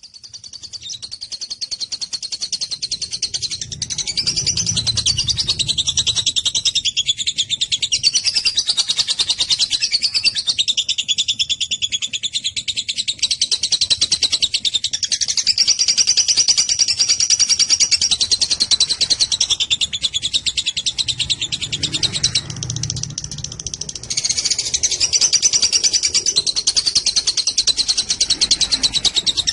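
Lovebird 'ngekek': a long, continuous run of rapid, high-pitched chattering notes. It fades in over the first few seconds and dips briefly about 22 seconds in.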